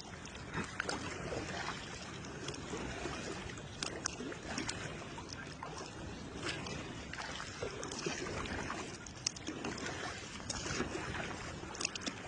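Water lapping and splashing against the hull of a kayak moving under sail: a steady rushing with many small, scattered taps and clicks.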